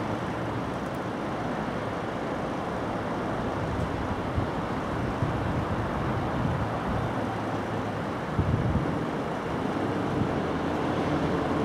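Steady low rumble of trains in a railway station yard, swelling briefly about eight seconds in.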